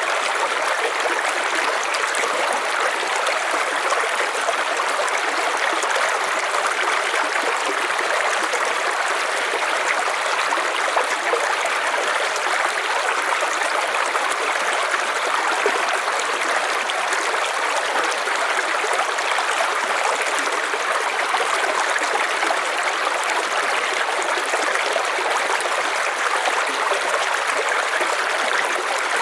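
River water running and splashing over stones, a steady rush that does not change.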